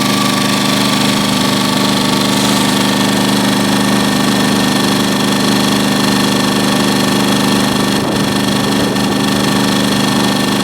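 Champion 2000-watt inverter generator's small single-cylinder four-stroke engine running at a steady speed while charging a battery. The hum stays even throughout, with no surging or changes in revs, matching its steady output of about 125 volts.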